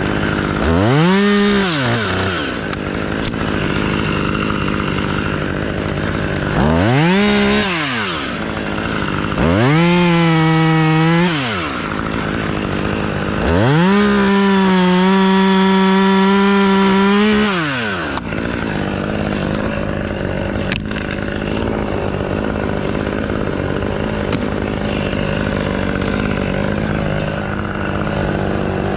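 Chainsaw revved up to full speed and back down four times, the last and longest for about four seconds, with a steady engine hum running underneath.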